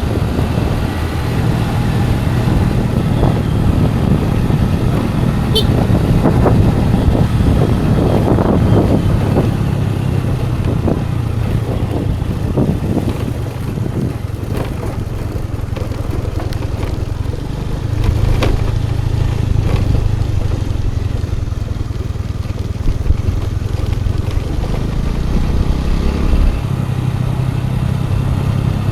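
Scooter engine running steadily under way, with road noise and a few short knocks from the ride. The engine gets a little louder about two-thirds of the way through.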